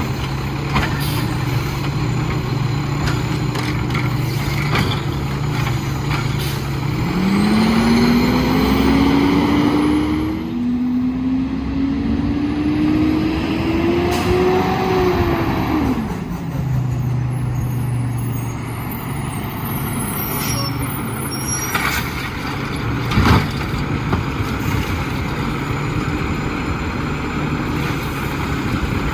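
Autocar WXLL garbage truck's diesel engine idling, then revving up in two rising sweeps over about nine seconds as it powers the McNeilus Autoreach hydraulic arm, before dropping back to idle. A couple of sharp clanks follow.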